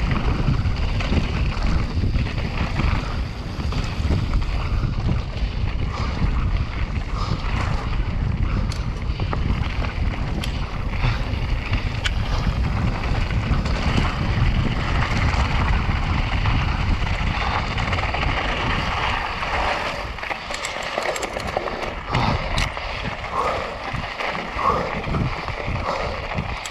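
Wind rushing over the camera's microphone during a fast mountain-bike descent, with the clicks and rattles of the bike over rough ground. About 20 s in the wind rumble drops away and the clatter stands out more.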